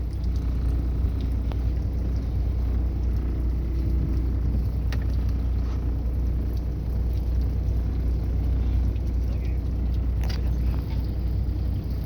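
Steady low rumble of a fishing boat's engine, with wind and water noise over it and a few faint knocks.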